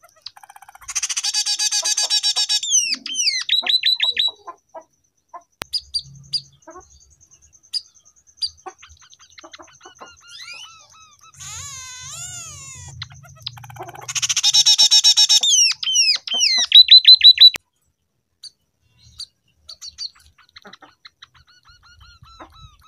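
Scaly-breasted munia (emprit peking) singing canary-style song it has learned from canaries. It gives dense, high trilled phrases, each ending in a run of sharp, falling whistled notes, with scattered short chirps between the phrases.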